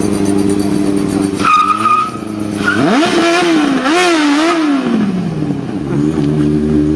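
A Zaporozhets fitted with a Yamaha R1 inline-four motorcycle engine runs steadily, gives a brief tyre squeal about a second and a half in, then revs up sharply. The revs swing up and down a few times before falling back to a lower steady run near the end.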